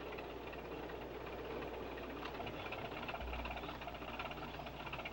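A steady, low engine rumble with a constant hum.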